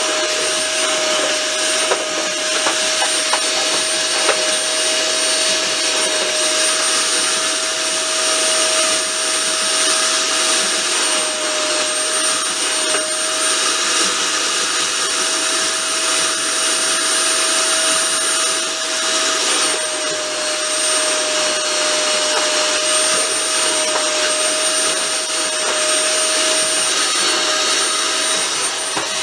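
A moving train heard from inside the carriage: a steady, even hiss with a constant mid-pitched whine and a faint high whine, and a few light clicks.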